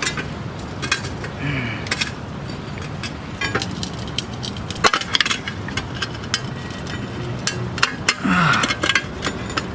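Two steel screwdrivers prying a front wheel hub assembly out of its steering knuckle, with irregular metal-on-metal clinks, taps and scraping as the hub is worked loose a little at a time.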